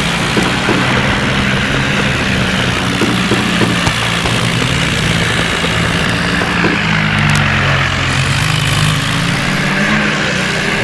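John Deere tractor's diesel engine running steadily, its pitch shifting a little late on.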